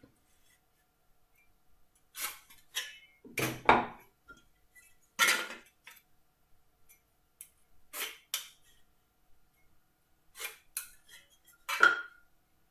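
Metal marking-out tools such as a try square and steel rule being picked up and set down on timber and the bench: a series of about ten separate sharp clinks and knocks, the one near the end ringing briefly.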